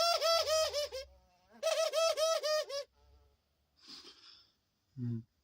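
Doves giving their laughing call: quick runs of rapidly repeated rising-and-falling notes, about a second each, twice, the second starting about a second and a half in. A brief low sound follows near the end.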